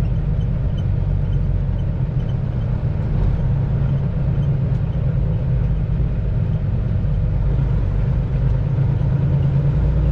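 Semi-truck engine running with a steady low drone, heard from inside the cab while the truck drives slowly.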